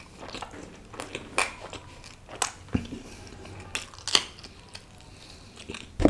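Close-miked chewing and wet mouth smacks of a person eating naan with rice and mutton curry: a string of sharp, short smacks at irregular intervals.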